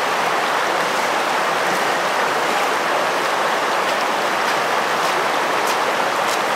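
Steady rush of flowing water from a river or stream.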